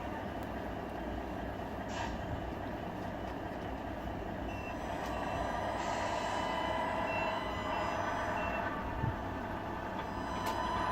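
Sound unit of a Tamiya RC model truck playing a diesel truck engine running steadily, with a few short high reversing beeps about halfway through.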